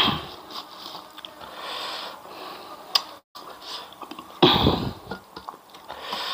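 Close-up eating sounds: chewing a mouthful of crunchy fried grasshoppers, with a loud sniff about four and a half seconds in.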